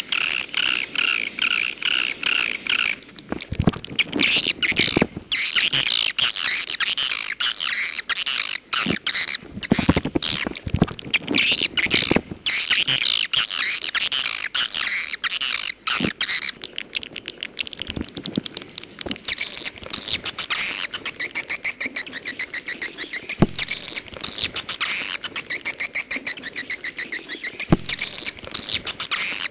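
Swiftlet calls: a dense, continuous stream of rapid high chirps and clicks, with a few short low thumps here and there.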